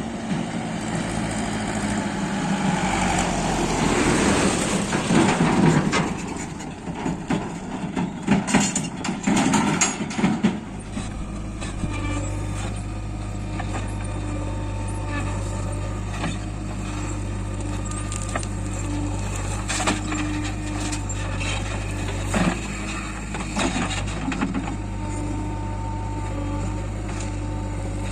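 A JCB 3DX backhoe loader's diesel engine working a load of mud, with clattering knocks for about the first ten seconds. After that it runs steadily.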